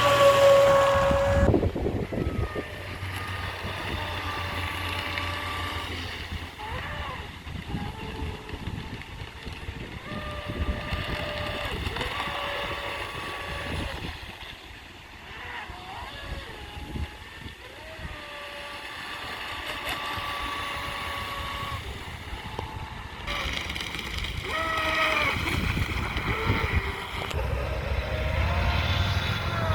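Pro Boat Shockwave 26 RC boat's electric motor whining as it runs on the water, its pitch holding and then gliding up and down as the throttle is worked. It is loudest in the first couple of seconds and again near the end.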